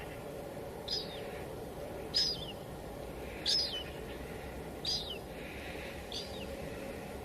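Steady hiss of drizzle, with a bird calling five times over it: short high notes that slide downward, about one every second and a quarter.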